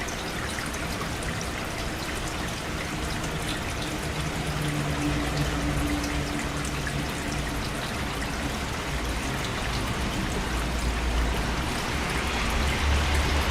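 Steady rain falling, a constant hiss flecked with individual drops tapping. A low rumble joins about a third of the way in and grows stronger near the end.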